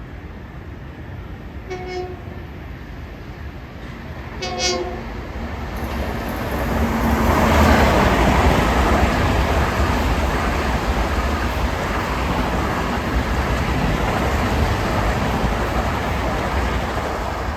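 Long Island Rail Road commuter train sounding its horn in two short blasts, about two and four and a half seconds in, then passing with a loud, steady rush of wheel and rail noise.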